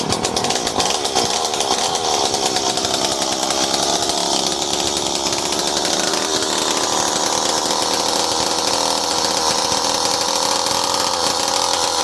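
Stihl MS 170 chainsaw's small two-stroke engine running steadily, its pitch settling slightly lower in the first few seconds.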